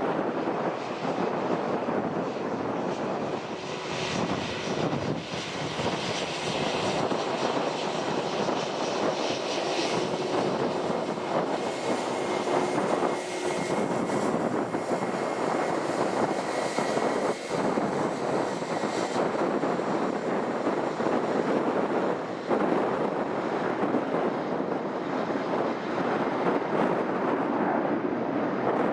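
Airliner engines running, a loud steady rush of noise. A thin high whine and extra hiss come in about four seconds in and fade out near two-thirds of the way through.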